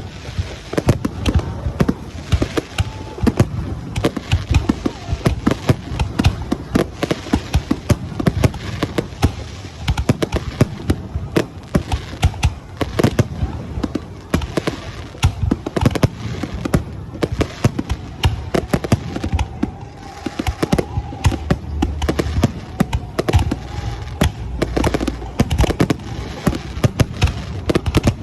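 Fireworks display: a dense, continuous barrage of sharp bangs and crackles, several reports a second, over a deep booming rumble.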